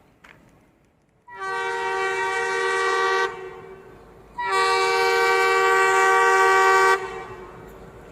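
WDG3A diesel locomotive's horn sounding two long blasts, the second longer and louder, as the train approaches to run through the station.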